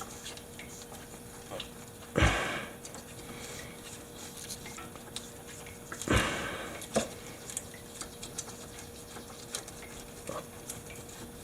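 Light metallic clinks and handling noises, with two louder clunks about two and six seconds in, as a new oil filter is spun on by hand.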